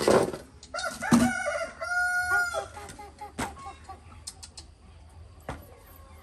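Chicken calls: one held, pitched call of about a second, around two seconds in, followed by a few shorter calls. Several sharp knocks fall among them.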